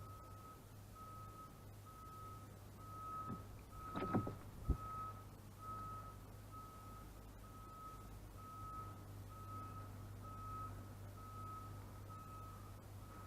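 Reversing alarm of a vehicle backing up, a single tone beeping at an even pace, over the low hum of its engine. About four seconds in there is a brief louder sound, then a sharp knock.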